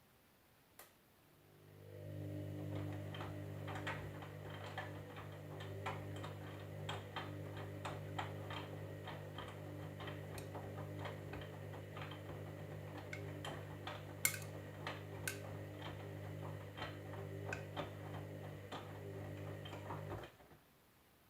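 Candy washing machine's motor turning the drum: a click, then a steady low hum that builds over about a second, with irregular clicks and ticks throughout, cutting off suddenly near the end.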